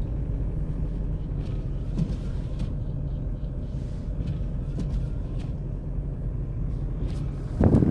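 A car driving on a snowy road, a steady low rumble of engine and tyres. A brief loud rush near the end.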